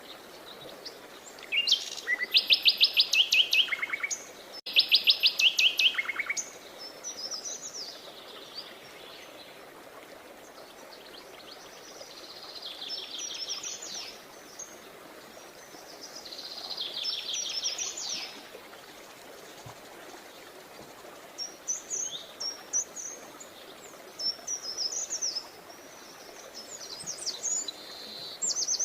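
Songbirds singing: two loud, fast trills in the first six seconds, then softer trilled phrases and short chirps every few seconds over a faint steady background hiss.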